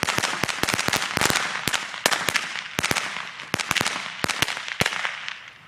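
A pile of firecrackers going off together: a rapid, irregular string of sharp bangs over a crackling hiss, thinning out and stopping near the end.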